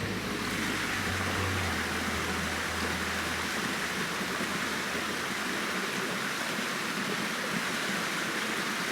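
Steady rushing of running water from a stream or waterfall. Low sustained music tones fade out about three and a half seconds in.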